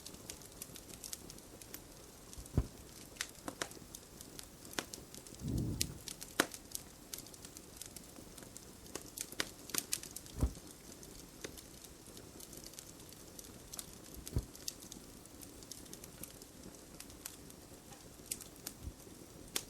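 Wood fire crackling, with irregular sharp pops and one soft low thump about five and a half seconds in.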